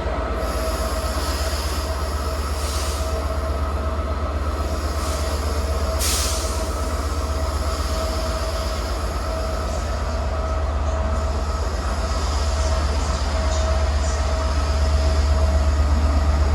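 Class 67 diesel locomotive, whose engine is a two-stroke V12, running with a steady low pulsing thrum. There is a short hiss about six seconds in, and the engine grows louder near the end.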